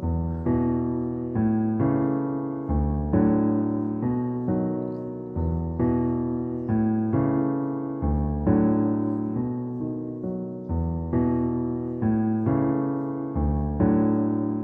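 Background piano music: gentle chords struck at a steady pace, each note fading before the next.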